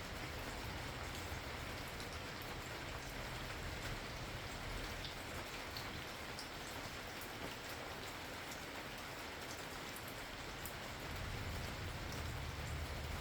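Steady rain falling, with individual drops ticking over the hiss. A low rumble sits underneath and grows slightly louder near the end.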